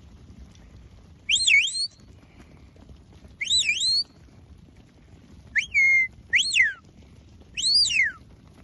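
Sheepdog handler's whistle commands to a working dog: five short, sharp whistles, each a quick glide up and down in pitch, spaced about one to two seconds apart.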